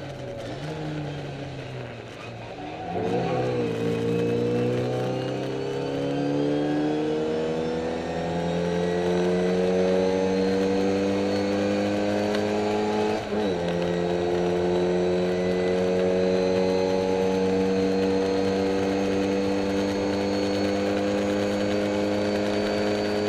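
Classic Mini race car's A-series four-cylinder engine heard from inside the cabin: low and off the throttle for the first few seconds, then pulling hard with its pitch climbing steadily. About 13 seconds in the pitch drops sharply for a quick upshift, then climbs again.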